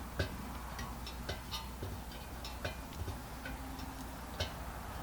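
Light, irregular metallic ticks and clicks from a hot Coleman 502 single-burner stove as it is worked on, about ten in a few seconds with no steady rhythm. The stove will not light, and the speaker says it is stuck.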